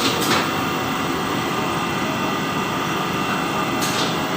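Laminating machine running with a steady mechanical hum, with two brief higher swishes, one near the start and one near the end.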